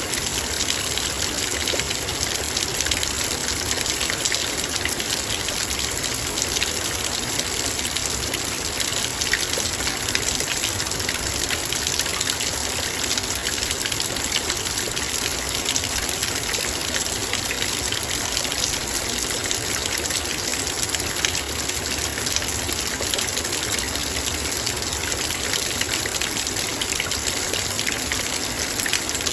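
Heavy rain falling steadily on a metal bowl: a dense, even rush of rain, speckled with countless small drop ticks.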